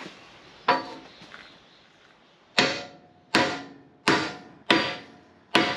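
Hammer blows ringing on metal, driving a chilled bushing into its bore on a loader quick coupler: one strike, a pause of about two seconds, then five strikes in steady succession.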